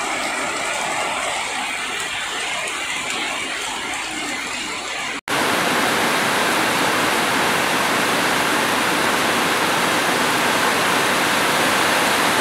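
Steady rain falling. A little past five seconds it cuts abruptly to louder, hissier heavy rain pouring onto corrugated metal roofs.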